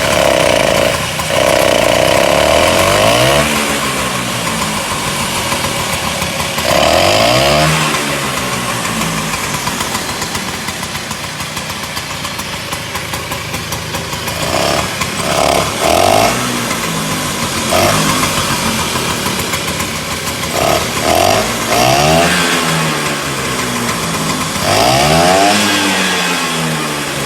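Classic Vespa 150 scooter's two-stroke single-cylinder engine running, revved up and back down about six times with idling between the revs.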